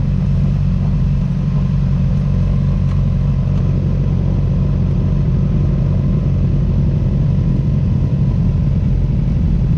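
Sport motorcycle engine running at low, steady revs, heard from the rider's seat as the bike rolls slowly in traffic.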